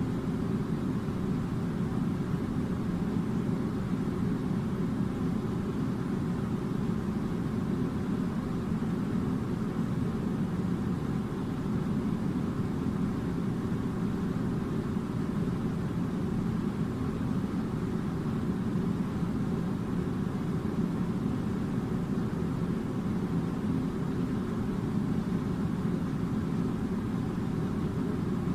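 Air conditioner running: a steady, unchanging low rumble of blowing air and motor noise.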